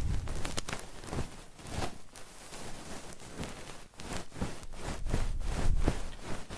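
Close-miked ASMR trigger sounds: irregular scratching and clicking with low rumbling bursts, the kind made by rubbing and picking at a microphone for ear-cleaning sounds.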